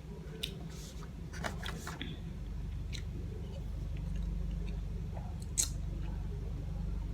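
Close-up eating sounds: a few crunchy bites and chewing, with a sharp crunch about five and a half seconds in, over a steady low hum.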